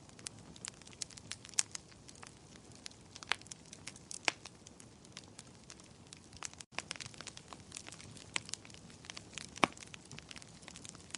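Wood fire crackling in a fireplace: irregular sharp snaps and pops, a few much louder than the rest, over a soft low rush of burning. The sound cuts out for an instant a little past the middle.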